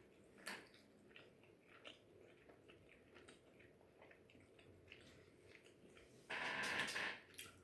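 Close, faint chewing of food with small wet mouth clicks, and a louder, noisier stretch near the end.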